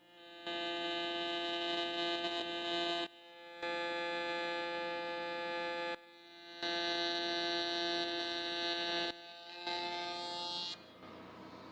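TIG welding arc buzzing in four bursts, the first three about two and a half seconds each and the last about a second, with short pauses between them.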